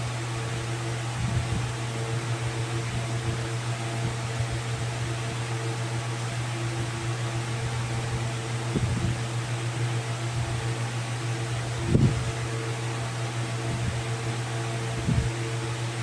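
Steady mechanical hum with a faint whirring noise, like a running fan, broken by a few brief low thumps, the loudest about three quarters of the way through.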